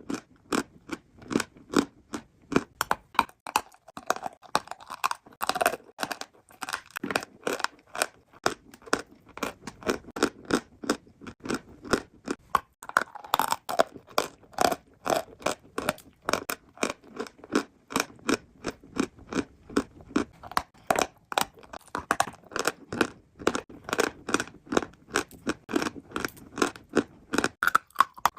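Close-miked chewing of chalk: a continuous run of sharp crunches, several a second.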